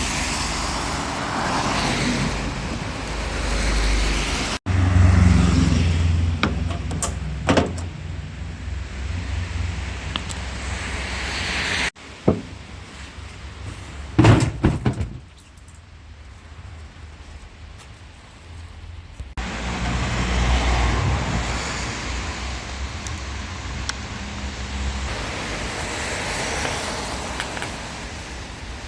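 Motor vehicle noise with a low rumble, in several segments that switch abruptly, with a couple of sharp knocks.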